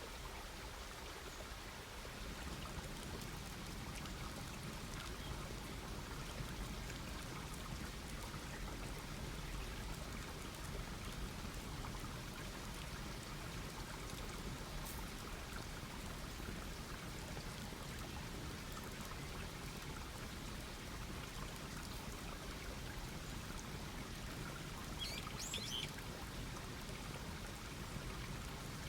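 Campfire burning with a steady hiss and faint, scattered crackles. A bird calls briefly near the end.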